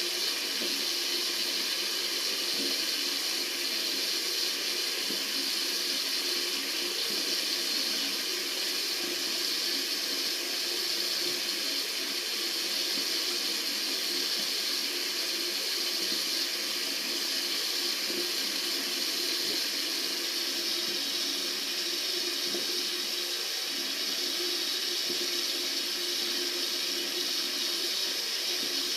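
Tap water running steadily from a faucet: an even, unbroken hiss of flowing water.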